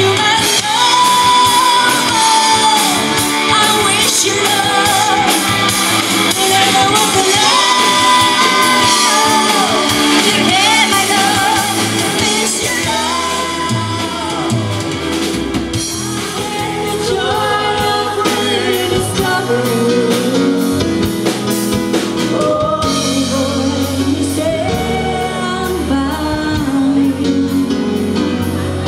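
Live rock band performing: sung vocals over electric guitar, bass and drum kit, played loud with a strong steady beat.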